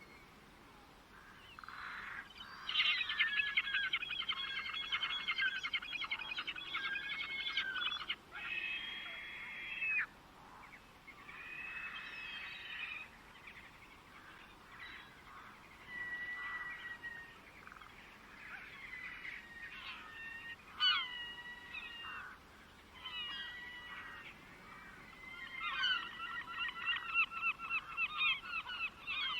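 Birds calling: a long run of rapidly repeated notes about two to three seconds in, shorter calls and whistled notes through the middle, and another fast run of repeated notes near the end.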